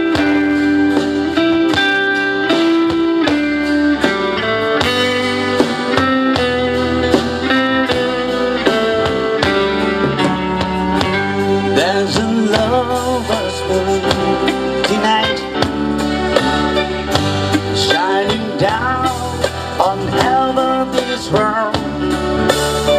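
Guitar-led band music, with a steady bass under it and a wavering lead melody from about halfway.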